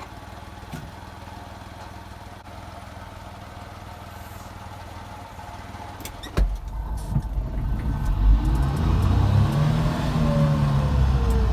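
Daihatsu Hijet kei truck's small three-cylinder engine idling steadily. About six seconds in, it turns abruptly much louder with a deep rumble, and its pitch climbs and then falls as the engine takes up speed and load.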